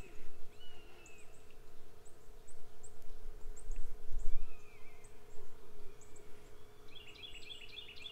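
Wild birds calling over open water: a few short falling whistles, scattered very high chirps, and a quick chattering series near the end. A faint steady hum runs underneath, and a brief low rumble about four seconds in is the loudest moment.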